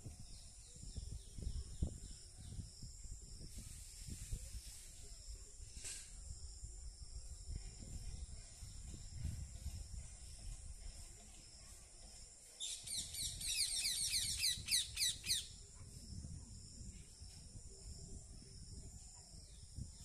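A bird's rapid, high-pitched trill of fast repeated notes for about three seconds midway, over a steady high drone and a low rumble.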